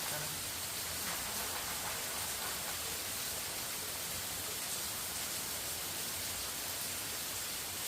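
A steady, even hiss with no separate events, strongest in the high range.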